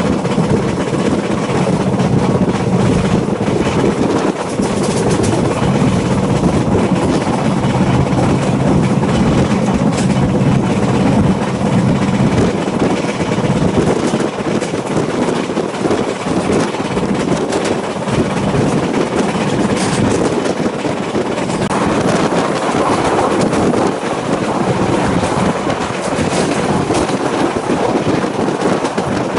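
Passenger train running along the line, heard from the carriage window: a steady rumble and rattle of the carriage and wheels, with air rushing past.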